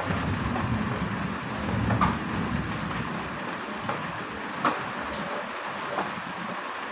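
Steady heavy rain with a low rumble of thunder that dies away about three seconds in. A few sharp drops tick through it.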